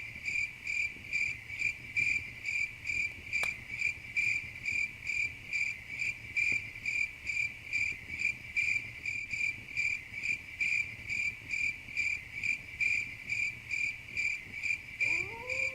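Cricket chirping steadily in an even rhythm of about three chirps a second, with a single sharp crackle about three and a half seconds in. A rising tone comes in near the end.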